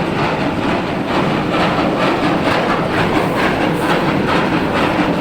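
Charcoal-making machinery running with a loud, steady, quick rhythmic clatter.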